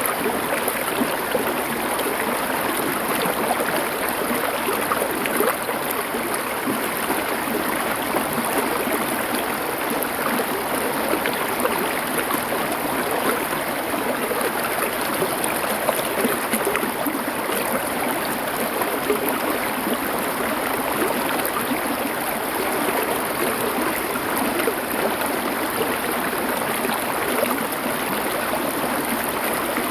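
Stream water flowing over stones: a steady, even sound of running water with no breaks.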